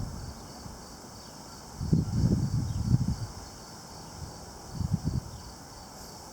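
Wind buffeting the microphone in two gusts, a longer one about two seconds in and a short one about five seconds in, over a steady high chirring of insects.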